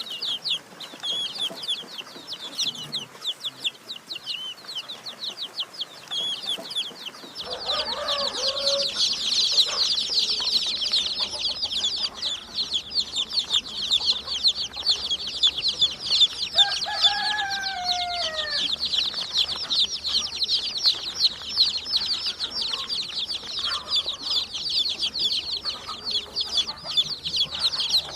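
Domestic chicks peeping: a few high, falling chirps at first, then about seven seconds in a dense, unbroken chorus of many chicks. A lower call from an adult hen cuts in twice.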